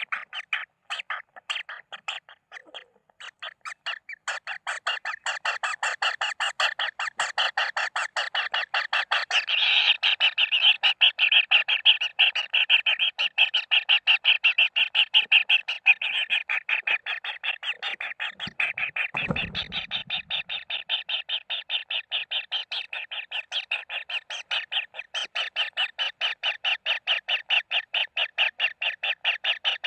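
Kingfisher chicks begging in the nest: a continuous run of rapid, harsh chirping calls, about six or seven a second, that never lets up. A brief low thump comes about two-thirds of the way through.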